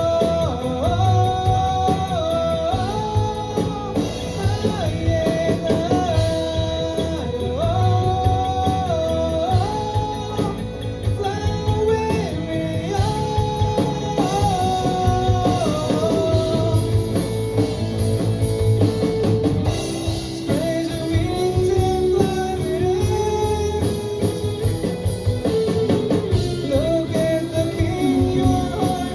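Live rock band playing: drums, bass and electric guitars under a melody of long held notes that step up and down.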